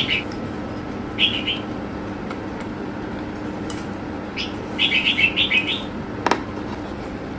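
A small bird chirping in short bursts: one chirp at the start, another about a second in, and a quick run of chirps around five seconds in. A single sharp click sounds just after six seconds, over a steady low hum.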